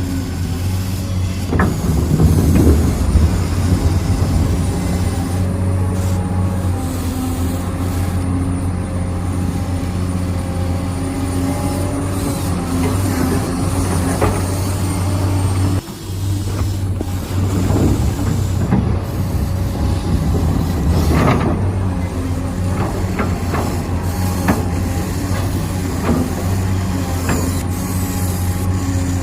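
Huina 1593 RC construction vehicle running: a steady, loud engine-like drone with a few short hisses, briefly cutting out about sixteen seconds in.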